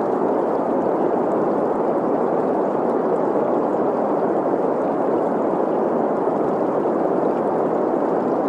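Steady green noise, a smooth hiss centred in the middle frequencies, blended with the sound of a running stream. It stays constant throughout without any change.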